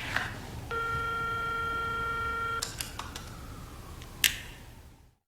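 An electronic beep tone held steady for about two seconds, like a telephone keypad tone, followed by a few sharp clicks and a fade to silence.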